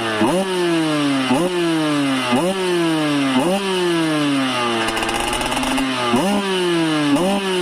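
Motocross bike engine revved in repeated throttle blips, about one a second: each time the revs jump up sharply and then die away, with a longer sag and slow pickup in the middle.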